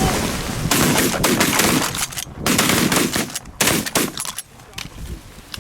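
Volley of shotgun fire from several hunters shooting at incoming ducks: a rapid, overlapping string of loud shots over about four seconds, then it stops.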